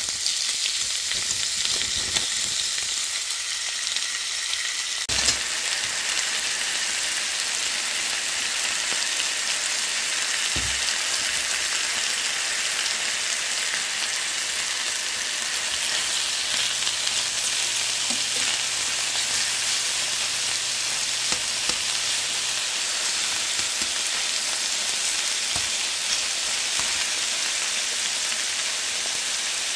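Chicken thigh pieces sizzling steadily in a hot stainless steel frying pan.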